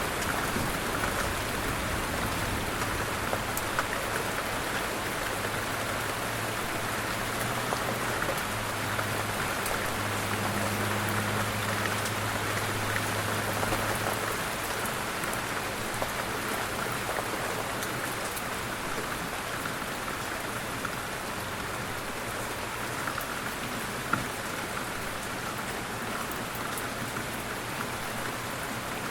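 Light rain falling steadily, with a low rumble underneath during the first half that fades out about halfway, and one sharp drop tick near the end.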